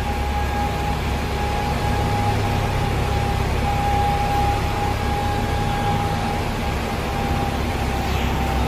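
Bus engine running, heard from inside the passenger cabin: a steady low rumble with a thin, steady whine and road noise over it.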